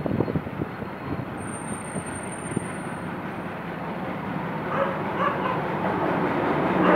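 Diesel locomotive hauling a passenger train as it approaches along the track, its engine and wheel noise growing steadily louder.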